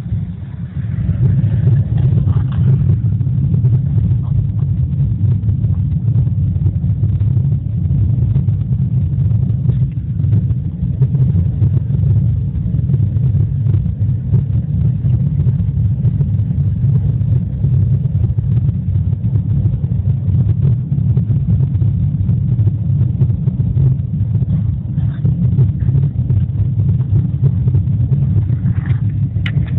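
Chimney fire burning inside the flue: a loud, steady low rumble with a dense crackle running through it.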